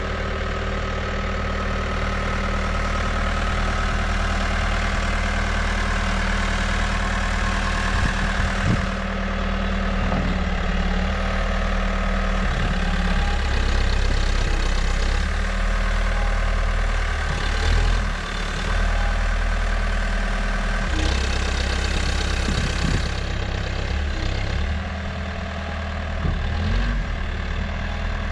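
New Holland backhoe loader's diesel engine running steadily near idle, with a few brief rises in level and short knocks along the way.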